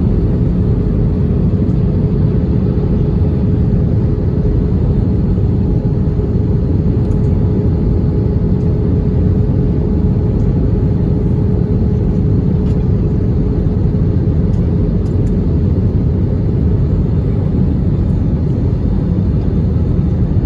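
Steady cabin noise of an Airbus A320 airliner heard from a passenger seat: a loud, even rumble of engines and airflow with a faint steady hum running through it.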